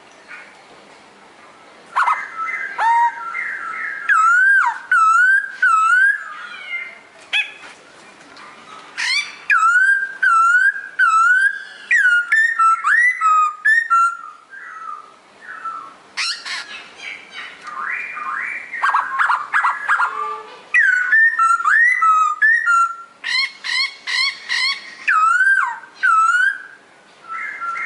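Pokho songbird singing loud whistled phrases of swooping, rising and falling notes, with quick repeated notes, in bursts separated by short pauses.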